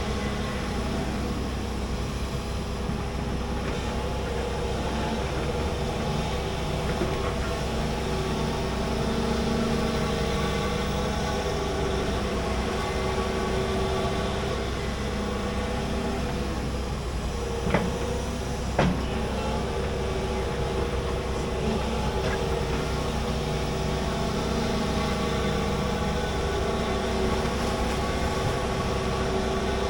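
Large excavator's diesel engine running steadily under load, with a steady hum of held tones, while it digs a trench. Two sharp knocks about a second apart come just past the middle.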